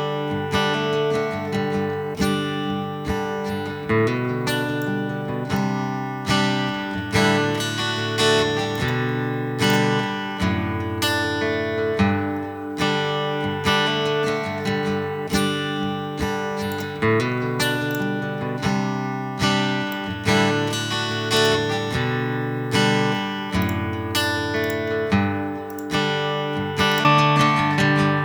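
Looped guitar part played through a Line 6 HX Stomp XL loaded with acoustic-guitar impulse responses, giving an acoustic-guitar tone: chords and single notes picked and strummed in a steady flow with frequent chord changes.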